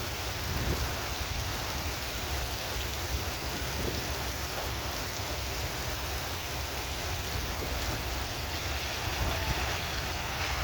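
Heavy thunderstorm rain falling steadily, with a low rumble underneath.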